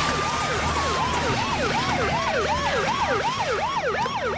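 Police car sirens: a fast yelp sweeping up and down about three times a second, over a slower wail that gradually falls in pitch.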